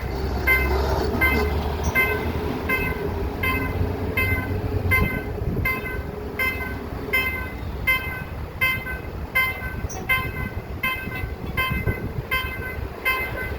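A warning bell ringing evenly about twice a second, over the low rumble of an arriving diesel train that fades after about five seconds.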